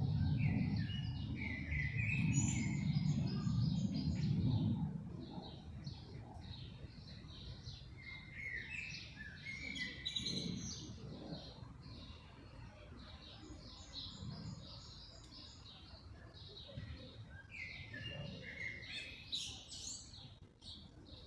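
Small birds chirping and twittering in repeated clusters. A louder low rumble runs under them for about the first five seconds.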